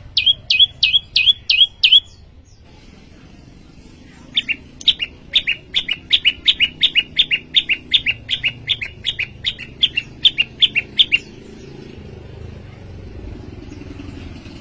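Prenjak lumut singing: a quick run of about seven sharp, high, repeated notes, a short pause, then a longer run of the same notes at about four a second that stops about three-quarters of the way through.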